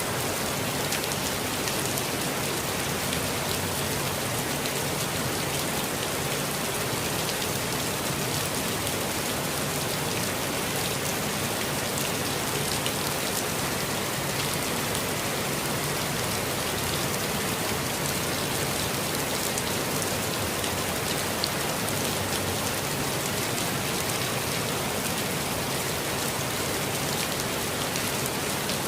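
Steady, even rainfall with many small drops pattering on surfaces.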